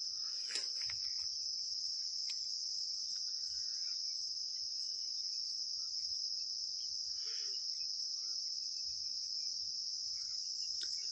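Steady, high-pitched chirring of insects, most likely crickets, with a few faint clicks.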